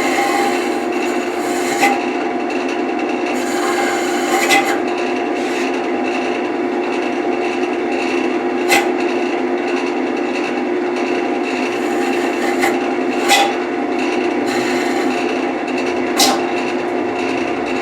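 Wood lathe running with a steady motor hum while a tool or abrasive rubs and scrapes against the spinning wood, with a handful of short sharp ticks spread through.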